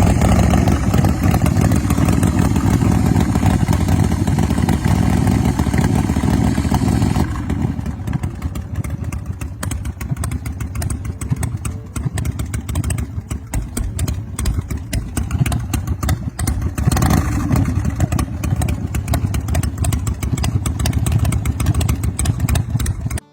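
Big Bear Choppers custom chopper's Ultima 127 cubic-inch V-twin running loud, with a rapid, uneven exhaust beat. The sound turns abruptly duller about seven seconds in, and the throttle is blipped briefly about seventeen seconds in.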